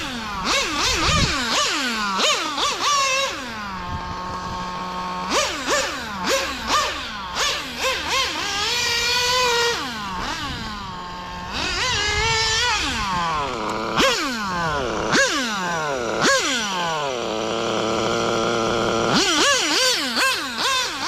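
Nova Mega .21 nitro RC engine revved in quick throttle blips, its pitch shooting up and dropping back again and again. Three times it holds at high revs for a second or two.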